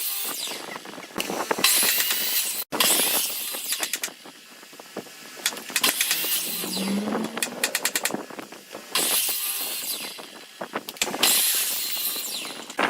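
Electric power tool on wood, run in repeated bursts of a second or two, its motor whine rising as it spins up each time, with rapid clattering between bursts.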